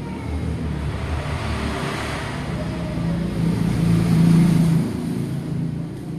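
A motor vehicle's engine running close by, a low steady hum that grows louder to a peak about four seconds in, then drops back.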